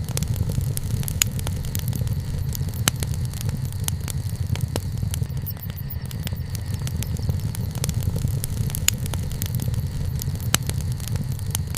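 Wood fire burning, with irregular sharp crackles and pops over a steady low rumble; a few louder pops stand out, about a second in, near three seconds, and twice more near the end.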